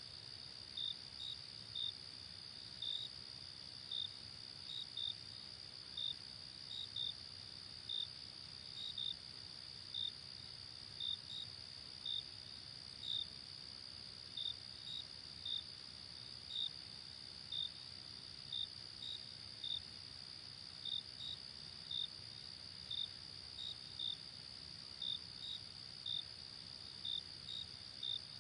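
Night-time chorus of crickets: a continuous high-pitched trill with short, separate chirps over it, about two a second and not quite evenly spaced, some in quick pairs.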